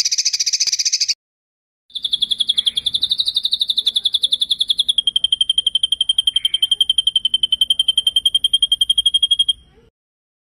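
Songbird singing a rapid rolling trill. A fast buzzy trill stops just after a second in; after a short break comes a long, even run of very fast high notes that drops a little in pitch about halfway, then cuts off near the end.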